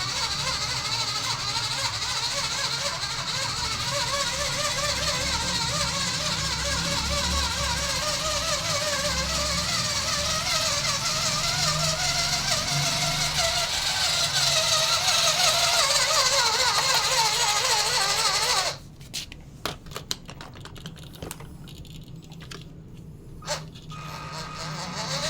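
Small electric motor and gearbox of an RC truck whining, its pitch wavering as the throttle changes; it cuts off suddenly near the end, followed by a few light clicks.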